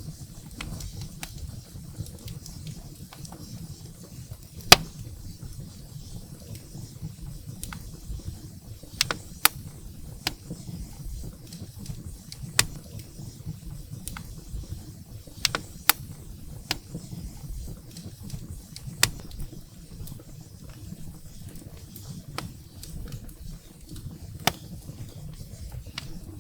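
Wood fire burning in a fireplace: a low steady rumble of flames with scattered sharp crackles and pops from the burning firewood, the loudest pop about five seconds in.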